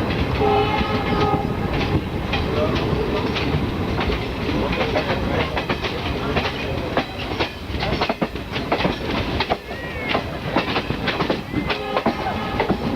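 Passenger train coaches rolling past on departure, with wheels clicking and clattering over the rail joints in an irregular rapid rhythm. A brief steady tone sounds about half a second in.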